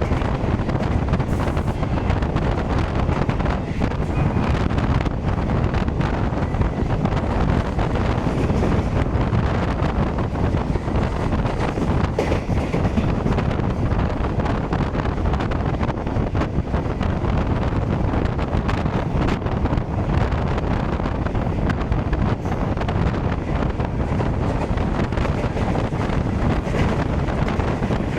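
Steady low rumble of a passenger train rolling past, with strong wind buffeting the microphone and faint rapid clicks.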